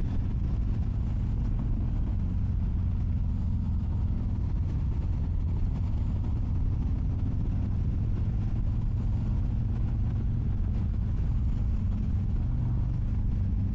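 Harley-Davidson motorcycle engine running steadily while riding, heard from the bike itself as a constant low engine note with road and wind noise over it.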